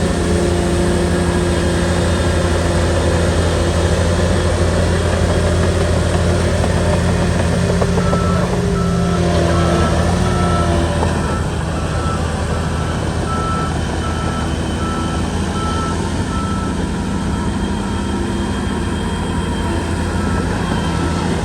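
Shantui bulldozer's diesel engine running steadily. From about eight seconds in, its reversing alarm beeps about once a second.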